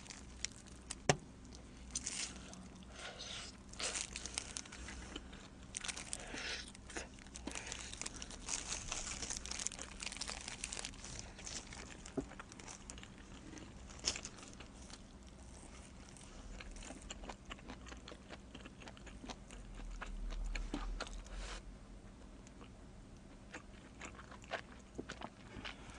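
Close-miked biting and chewing of pepperoni and pineapple pizza, with crunching of the crust, busiest and loudest in the first half.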